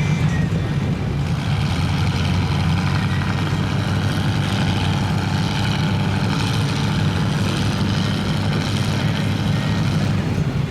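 A heavy vehicle engine running steadily at low revs, an even low drone that neither rises nor falls.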